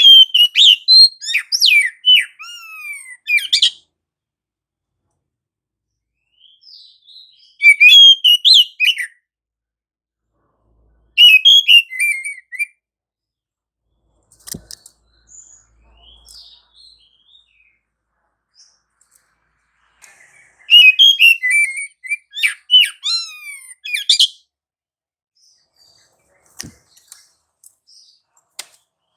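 Oriental magpie-robin in full song: loud bursts of rapid, varied whistles and chirps, four song phrases separated by pauses of several seconds.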